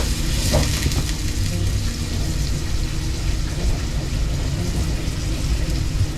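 Steady low rumble of storm wind buffeting the food truck, with a faint steady hum underneath and a couple of light clicks about half a second in.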